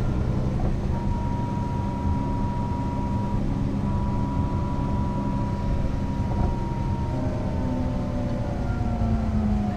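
Mercedes-Benz O 405 NÜ bus heard from on board: the engine runs with a steady low drone, and a thin high whine sits above it. In the last couple of seconds the engine note rises slightly while the whine drops a little.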